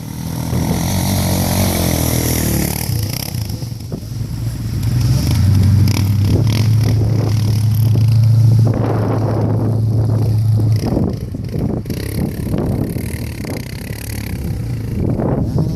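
Chevy/GMC 6.2-litre V8 diesel running through a glasspack exhaust as the K5 Blazer is driven off-road. The engine note climbs and holds steady under load for several seconds, then eases off about two-thirds of the way through, with scraping and clattering noises over it.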